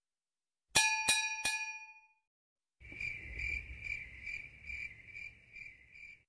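Three quick metallic bell dings, each ringing on briefly, followed by a cricket chirping in a steady high pulsing trill, about two to three chirps a second.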